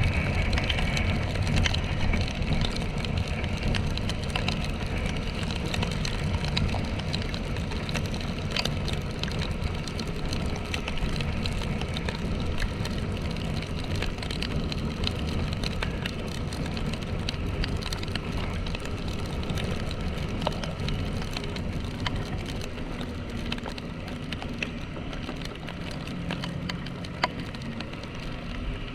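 Single-cylinder motorcycle engine running under way, with wind and tyre noise in wet weather and a steady crackle of raindrops hitting the camera.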